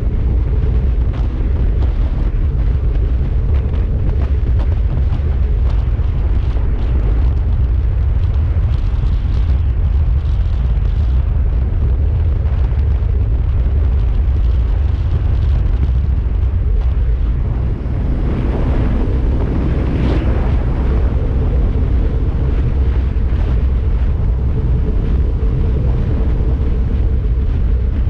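Heavy wind buffeting the microphone of a Kawasaki Z300 motorcycle riding at speed: a loud, steady low rumble. A louder rushing swell comes about two-thirds of the way through.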